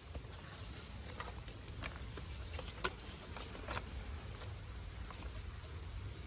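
Rain pattering, with scattered irregular drop ticks, a sharper one about three seconds in, over a low steady rumble.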